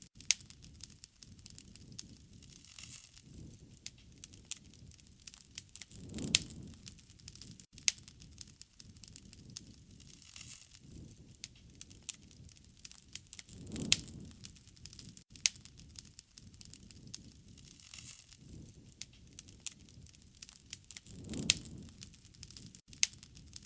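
Wood fire crackling, with frequent sharp pops over a soft hiss, and a low swell of flame noise about every seven or eight seconds.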